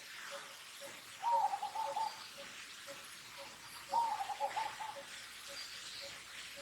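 Two bouts of animal calls about three seconds apart, each a longer arched note followed by several short quick notes, over a faint even ticking about twice a second.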